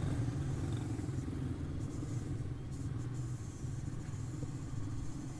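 Quarter midget race cars' single-cylinder Briggs & Stratton Animal engines running on the track, heard as a steady engine rumble.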